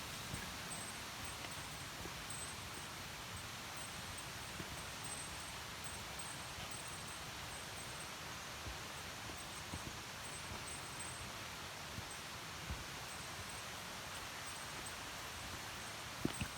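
Mountain stream running over shallow rapids, a steady even rush of water.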